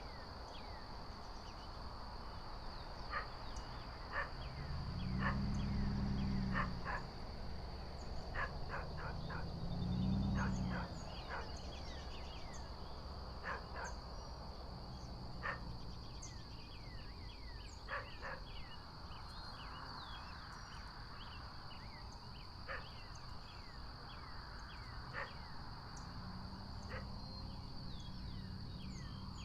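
Outdoor bird ambience: many short, high chirps, often sliding downward, scattered through the whole stretch over a steady high hum. Two low rumbles swell and fade about five and ten seconds in.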